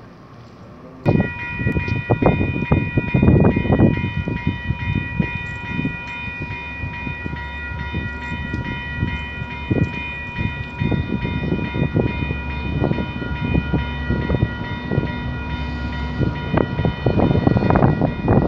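Commuter train running at a station: wheels clunk and knock over the rails beneath a steady, high multi-note tone that starts suddenly about a second in and holds throughout.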